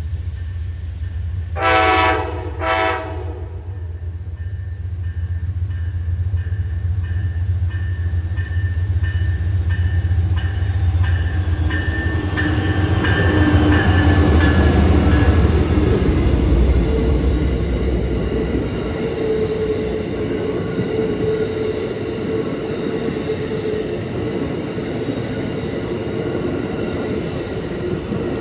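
A passing train: the diesel locomotive sounds two short horn blasts about two seconds in, and its engine rumbles past. The rumble fades around two-thirds of the way through, leaving the rail cars rolling by with wheel noise and a steady tone from the wheels.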